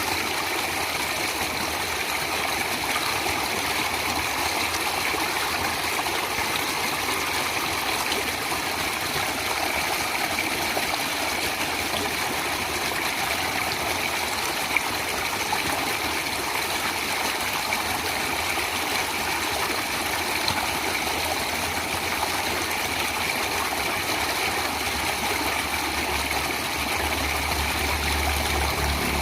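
Natural running water flowing steadily, an even rushing splash. A low hum comes in near the end.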